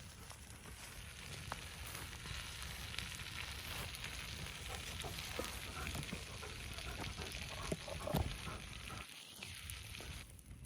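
Wood fire crackling and hissing, with scattered sharp pops.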